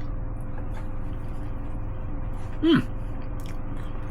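A man's short, falling "mmm" of approval while tasting food, about two and a half seconds in, over a steady low hum.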